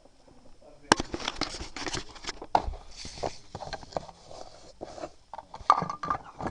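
Toy pieces being handled and set down: a dense run of small clicks, knocks and crackly rustling that starts about a second in.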